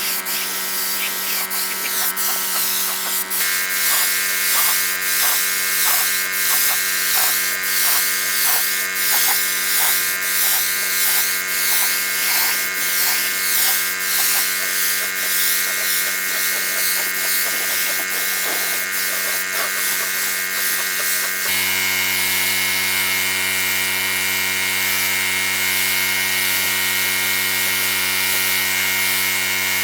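A small electric power tool's motor running with a steady whine, stepping up in pitch about three seconds in and again past the middle. In between, the level swells and fades a little more than once a second, as if the tool were worked in strokes against the work.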